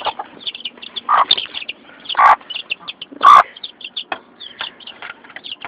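Chickens: a flock of chicks peeping in many short, high chirps, with three louder, harsher squawks from adult birds about one, two and three seconds in.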